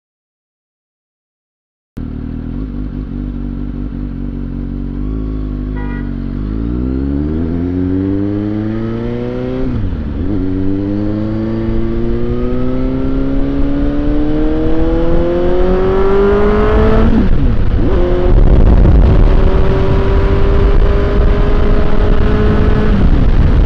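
Suzuki GSX-S750's inline-four engine idling, then pulling away and accelerating with a rising pitch. The pitch drops sharply at upshifts about ten and seventeen seconds in, then climbs on more slowly in the higher gear. The first two seconds are silent.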